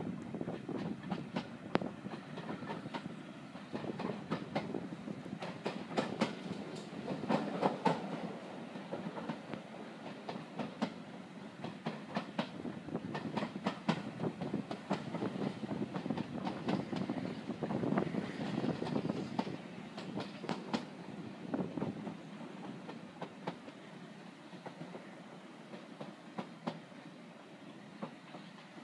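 Railway passenger carriage running along the line, heard at an open window: a continuous rumble with irregular sharp clicks of the wheels over the rail joints and track. It becomes quieter over the last few seconds.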